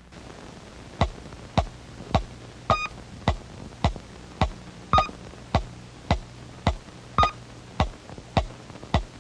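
Electronic ticking sound effect from a 1950s cartoon soundtrack: sharp ticks repeating evenly a little under twice a second, every fourth tick topped with a short high beep, over a faint steady low hum.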